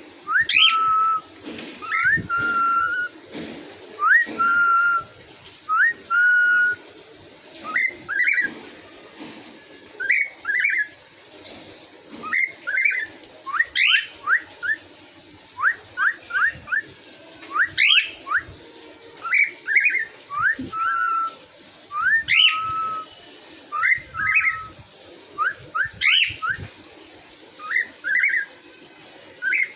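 Caged pet bird calling over and over: short whistles that sweep upward, some ending in a short held note, about one every second or two.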